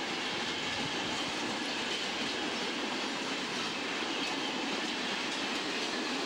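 Freight wagons, covered vans followed by tank cars, running past at speed: a steady rush of wheel-on-rail noise.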